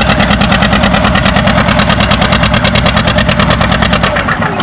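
John Deere 730's two-cylinder engine working hard while pulling the weight-transfer sled, a steady run of fast, even exhaust beats, about nine a second.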